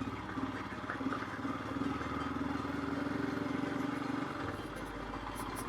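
Royal Enfield Himalayan's single-cylinder engine running at low revs, a steady note that eases off about four seconds in.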